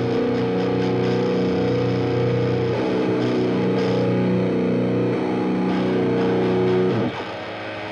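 Rock band playing live, distorted electric guitar holding long sustained chords that change about three and five seconds in; the music drops to a quieter passage about seven seconds in.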